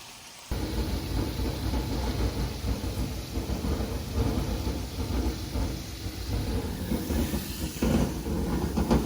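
Loud sizzling of food frying in a pan of hot oil, starting abruptly about half a second in and then holding steady.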